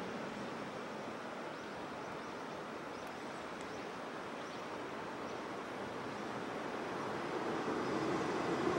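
A steady rushing outdoor noise, joined from about six seconds in by the running noise of an approaching Sanriku Railway diesel railcar, which grows louder toward the end.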